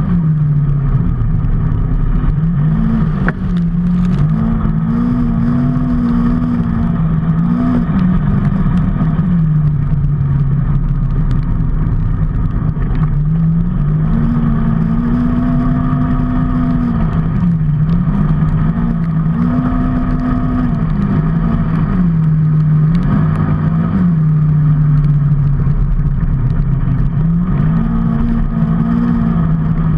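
Motorcycle engine running while riding, its pitch climbing, holding and dropping again and again as the throttle opens and closes, over steady road and wind noise.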